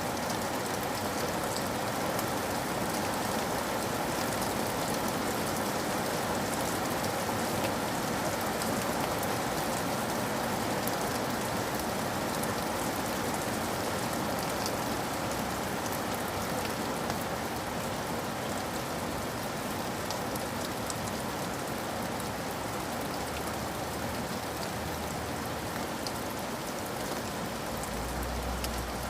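Steady rain falling on surfaces, with individual drops ticking through it. A low rumble comes in near the end.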